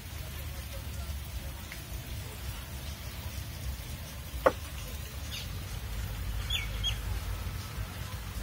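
A few short, falling bird chirps in the second half over a steady low rumble, with one sharp click about halfway through, the loudest sound.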